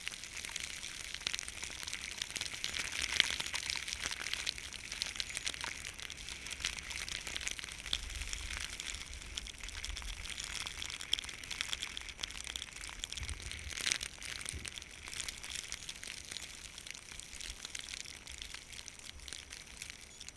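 Skis sliding over snow: a steady crackling hiss with many small scrapes, louder for a moment about 3 s in and again near 14 s. A low wind rumble on the microphone runs underneath.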